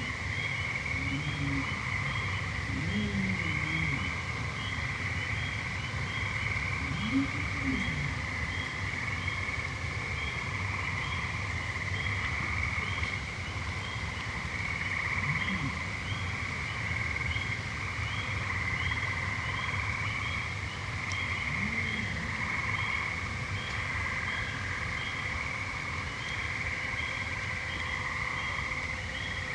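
Evening frog and toad chorus: a steady, continuous high trill with a lower trill coming and going under it, and a short note repeating about twice a second above. Mosquitoes whine past close to the microphones, rising and falling in pitch, several times in the first few seconds and twice more later.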